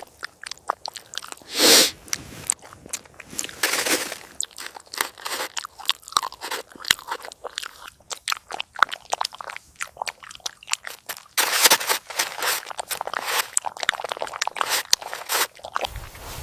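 A dog chewing crunchy food: a run of irregular sharp crunches, heaviest about two seconds in and again through the last third.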